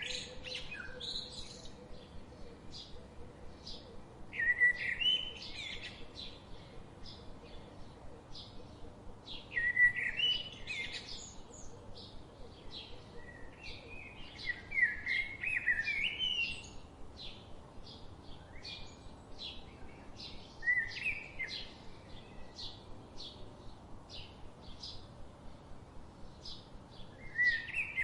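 Birds singing: a short phrase of sliding notes comes back every five seconds or so, and a steady run of quick, high chirps fills the gaps between.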